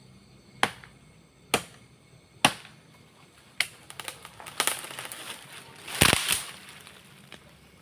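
A golok of leaf-spring steel chopping into a dry tree: about six sharp strikes, roughly a second apart. The strike about six seconds in is the heaviest and lasts longer.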